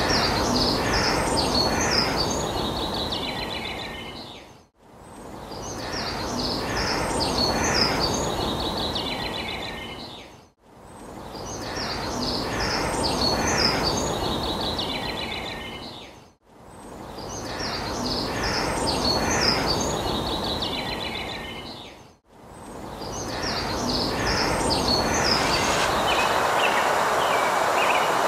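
A songbird sings quick, high chirping phrases over steady background noise. The same short recording fades in and out and repeats four times, about every six seconds, before a longer stretch fills the last six seconds.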